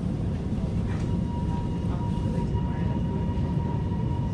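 Steady low rumble of a Metro electric suburban train running along the track, heard from inside the carriage. A faint steady whine comes in about a second in.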